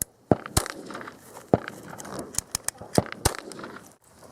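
A string of sharp, irregular clicks and knocks, about ten in four seconds, a few of them coming in quick succession just past the middle, over faint voices.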